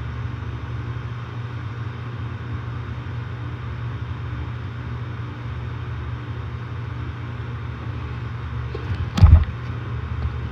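Outdoor air-conditioner condenser running: a steady low hum from the compressor with the fan's even rush above it. The owner suspects this compressor is starting to fail. A single loud knock about nine seconds in.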